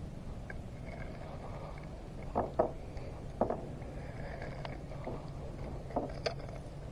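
A few sharp knocks and taps on a kayak: two close together about two and a half seconds in, another a second later, and a pair near the end, over a steady low rumble.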